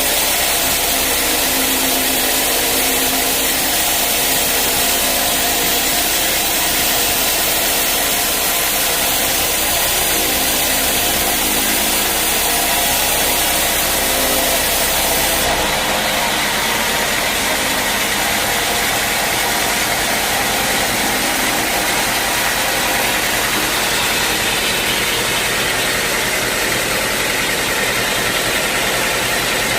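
Band sawmill running steadily with a loud, dense mechanical hiss. About halfway through the sound changes and the high hiss drops noticeably.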